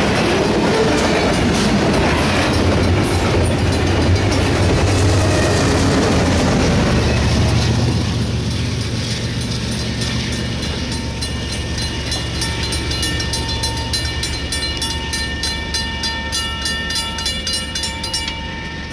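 Double-stack intermodal well cars of a freight train rolling past, with a rumble and steady clickety-clack of wheels over rail joints. The tail end goes by and the sound fades away after about eight seconds, leaving a receding rhythmic clatter.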